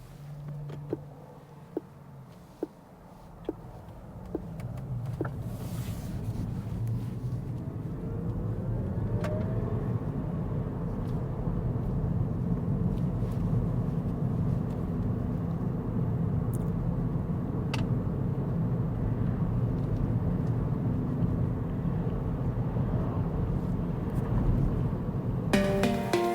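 Cabin sound of a Rivian R1T electric pickup pulling away: a few soft ticks about a second apart at first, then tyre and road noise building as it gets up to speed, with a brief rising electric-motor whine, and settling into a steady drone while cruising.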